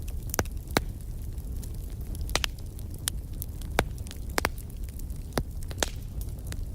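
Wood fire crackling: irregular sharp pops and snaps, a few each second, over a low steady rumble of the flames.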